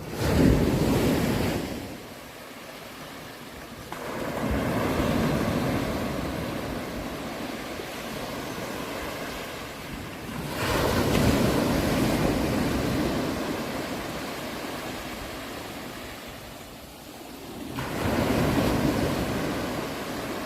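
Sea waves breaking on a shore: four surges of surf, each swelling quickly and then washing back over several seconds.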